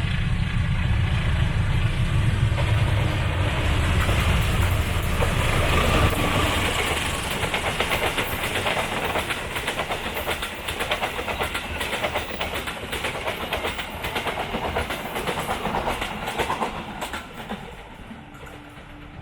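A train passing close by: a heavy low rumble for about the first six seconds, then a long run of rapid wheel clatter over the rail joints that dies away near the end.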